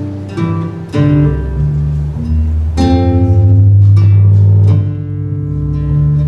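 Acoustic guitar playing, plucking chords and single notes over ringing bass notes, each attack decaying as it rings out.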